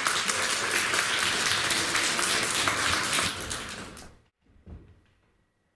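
Audience applauding, dying away about four seconds in, followed by a faint low thump.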